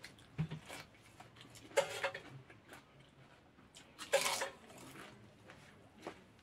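Close-up eating sounds of a man eating rice and crisp papad with his hand: chewing with small clicks and smacks, and two louder crunches or smacks about two and four seconds in.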